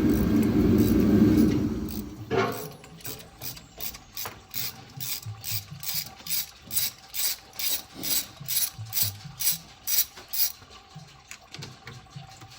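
Hand ratchet wrench clicking in a steady run, about three clicks a second, as a bolt is worked on an engine under teardown; the clicks fade near the end. A loud low rumble fills the first two seconds and stops with a knock.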